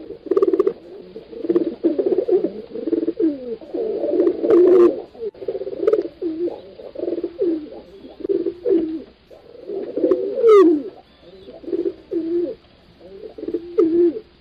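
Several pigeons cooing at once, their low, throaty coos overlapping almost without a break, with a few brief higher chirps in between.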